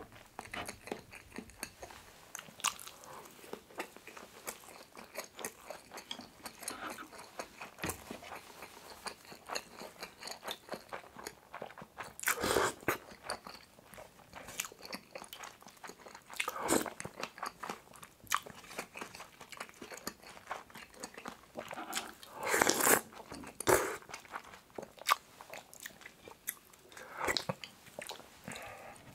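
Close-miked chewing and mouth sounds of a person eating pork kimchi stew with rice: many small clicks and smacks, with a few louder, longer mouth sounds about halfway through and toward the end.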